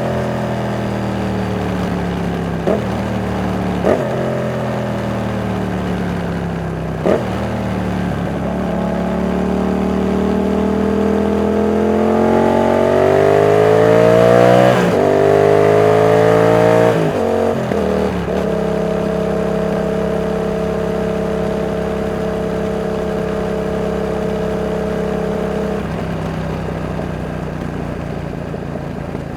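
Yamaha MT-07's CP2 270-degree parallel-twin engine on the move. The revs fall at first, broken by three brief blips, then climb for several seconds with a gear change about halfway through. It then drops back, holds a steady cruise and eases off near the end.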